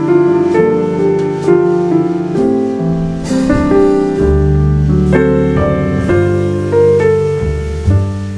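Jazz piano trio playing live: piano chords and melody over sustained bass notes, with drum cymbals ticking along and a brighter cymbal stroke about three seconds in.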